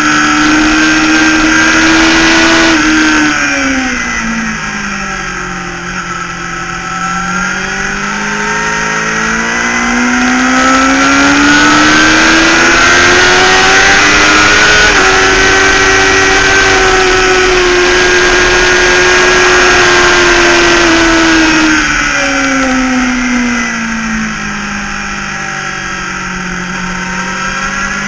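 Motorcycle engine at track speed, heard onboard through heavy wind rush. The revs drop about three seconds in as it slows for a corner, climb back with one gear change past the middle, hold high and steady, then fall again for the next corner and start rising near the end.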